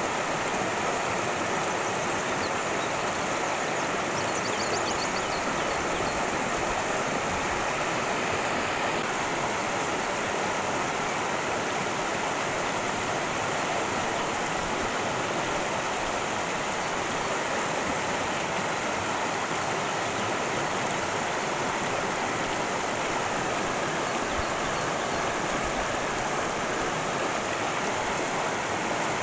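Cascading creek water rushing steadily, an even unbroken sound.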